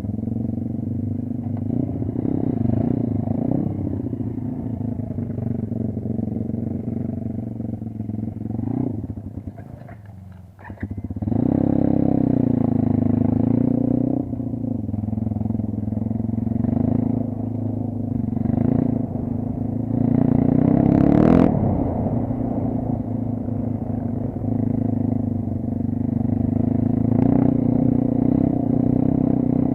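Motorcycle engine running under a rider, its pitch rising and falling with the throttle. About ten seconds in it drops away almost to nothing, then comes back strongly. It revs up sharply around two-thirds of the way through.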